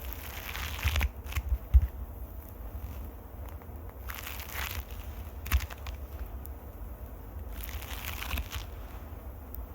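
Fingers scratching directly on a microphone: crackly scratching in bursts of about a second, three times, over low rumbling thumps of handling on the mic.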